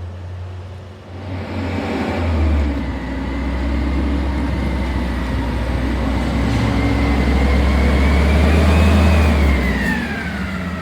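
CNG Peterbilt 320 front-loader garbage truck's engine revving up about a second in and holding high, with a steady high whine over it; near the end the whine rises, then falls as the revs drop.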